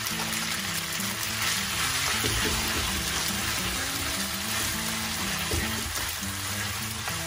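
Spaghetti and linguine sizzling in a hot non-stick frying pan as they are tossed and stirred with a spatula and fork, a steady frying hiss.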